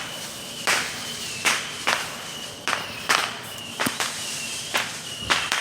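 A series of about ten sharp, irregularly spaced snaps or cracks over a faint, steady high-pitched whine.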